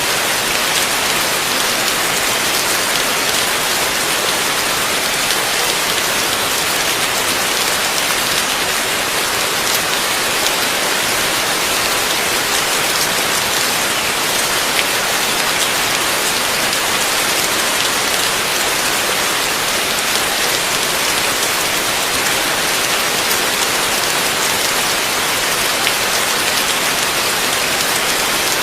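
Heavy rain falling steadily in a dense hiss, with a fine patter of individual drops and no let-up or thunder.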